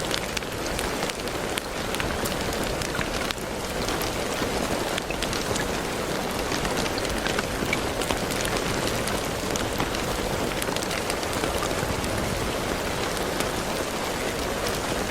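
Steady rain falling, an even hiss with many small, distinct drop ticks throughout.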